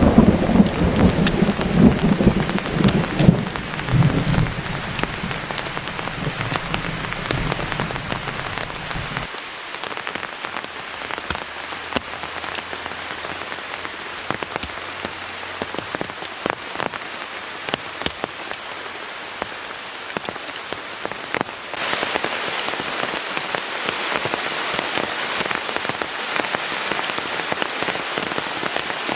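Heavy rain falling steadily with sharp ticks of individual drops, under a low thunder rumble that dies away over the first several seconds. About nine seconds in the rumble cuts off and only the rain is left, and near the end the rain gets louder and hissier.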